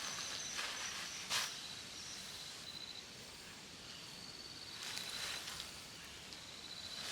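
Insects trilling in high, evenly pulsed runs that start and stop several times, over a low outdoor background, with a few short rustles.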